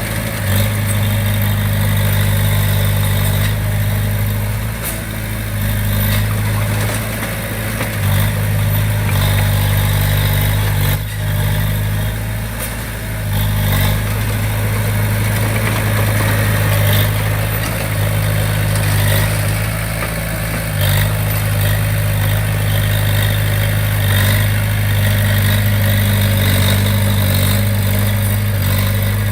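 Diesel engine of a Komatsu D20P crawler bulldozer running steadily, with a few brief knocks.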